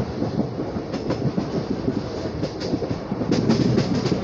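Shramjeevi Express passenger train running at speed, heard from aboard: a steady rumble of wheels on the rails with sharp clickety-clack clicks, a few about a second in and a quick run of them near the end.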